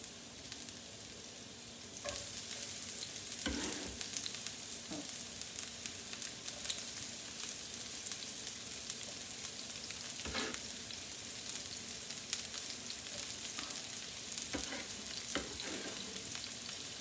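Onions and garlic sizzling as they fry in olive oil in a pan, getting louder about two seconds in, with a few knocks of a utensil stirring them.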